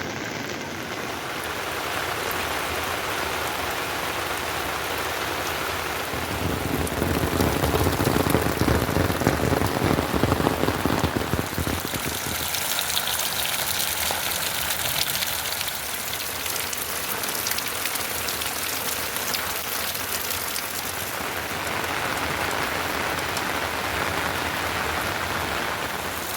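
Heavy rain falling steadily, a dense patter of drops, growing louder and fuller for several seconds from about six seconds in before easing back.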